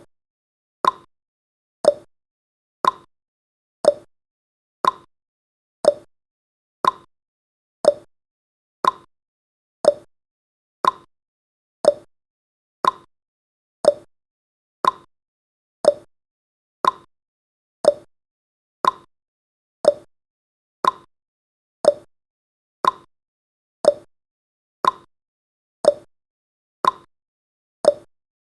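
Countdown timer's tick-tock sound effect: one short click every second, alternating between a higher and a lower tick like a clock.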